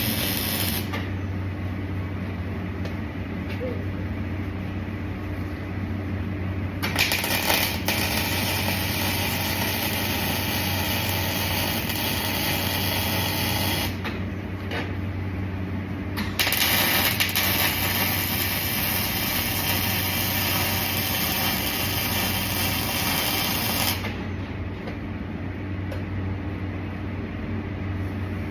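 Welding arc crackling in two runs of about seven seconds each, with short pauses between, over a steady electrical hum from the welding machine.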